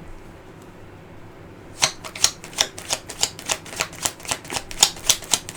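Tarot cards being shuffled by hand: a quick run of crisp card snaps, about three or four a second, starting a couple of seconds in after a quiet stretch.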